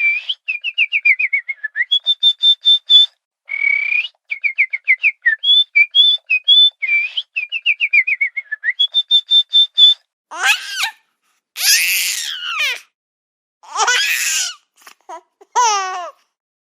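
Rapid runs of short whistled notes, some held high and level and others stepping down in pitch, for about ten seconds. Then several separate bursts of babbling, baby-like vocal sounds.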